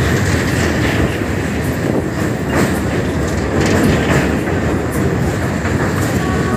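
Passenger train's coaches rumbling across a steel truss bridge, loud and steady with irregular metallic clanks from the wheels and track, heard from an open carriage window.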